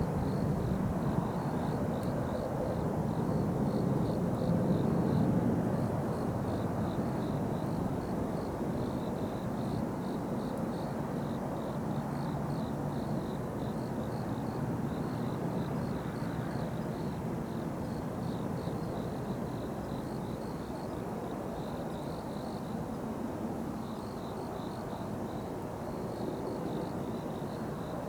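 Jet aircraft engine noise from a distance, loudest about five seconds in and then slowly fading. A faint, high, pulsing chirp runs underneath.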